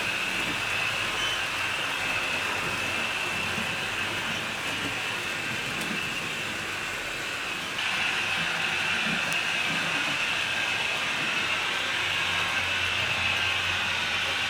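HO scale model train running on the layout: a steady whirring run of motor and wheels on the rails, growing louder about eight seconds in.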